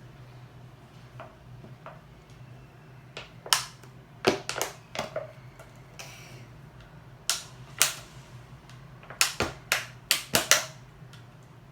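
Plastic bottle clicking and cracking as it is handled and pierced to make holes: about a dozen sharp clicks in two clusters, a few seconds in and again near the end.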